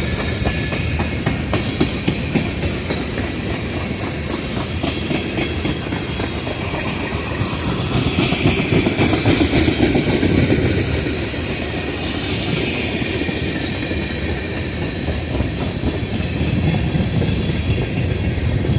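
Freight train passing at close range: steady rumble of rolling freight cars, with wheels clicking over rail joints and a faint squeal of wheels now and then.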